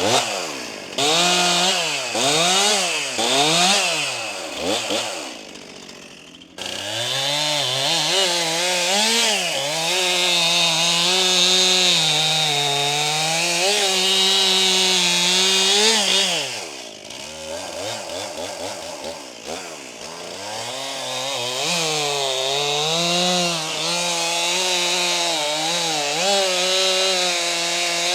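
New Stihl MS261 C-M two-stroke chainsaw revving up and down in quick blips, then held at high revs for about ten seconds, its pitch sagging and wavering as it cuts wood. It drops back to a lower speed briefly, then revs up into a second long cut near the end.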